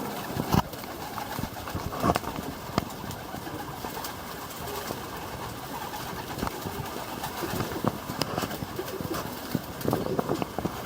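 Domestic pigeons cooing, with scattered sharp clicks and knocks.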